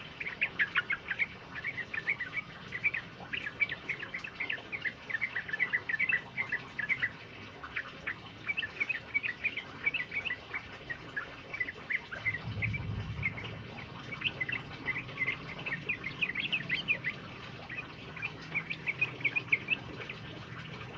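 A bulbul singing long runs of quick, bubbling chirps, phrase after phrase with short gaps. A brief low rumble comes about twelve seconds in.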